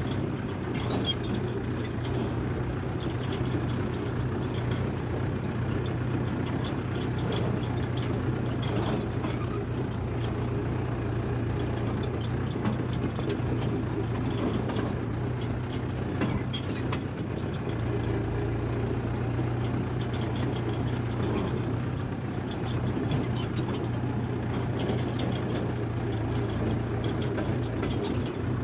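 Diesel engine of a Mahindra 585 DI XP Plus tractor running steadily with a constant low hum.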